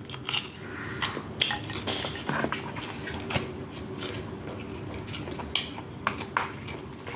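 Cutlery clinking and scraping against dishes, in irregular light clicks, while food is handled for eating.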